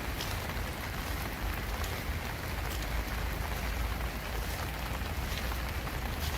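Steady summer rain falling, an even hiss with a few sharper drop ticks here and there and a low rumble underneath.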